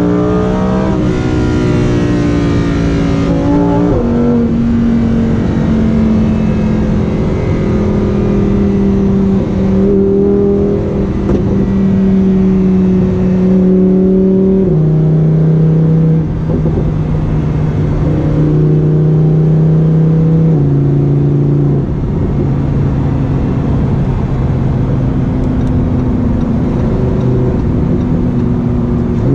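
Lamborghini Huracán's V10 engine running loudly at steady revs. Its pitch climbs over the first second, then holds level for several seconds at a time, with sudden steps down and up throughout.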